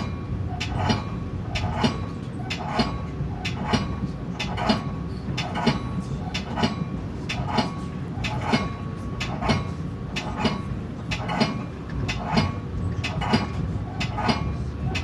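Metra commuter train rolling at steady speed, its wheels knocking over rail joints about once a second over a steady rumble.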